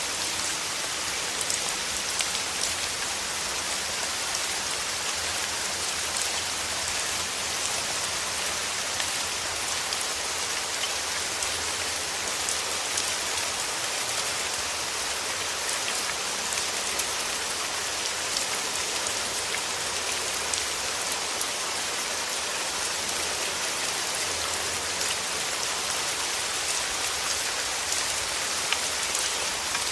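Steady rain with a dense, even patter of many small drops.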